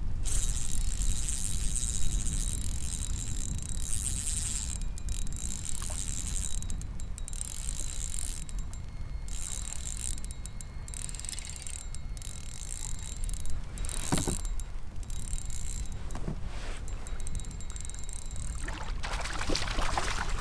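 Wind rumbling on the microphone aboard a fishing kayak, with a high hiss that comes and goes and a few short knocks.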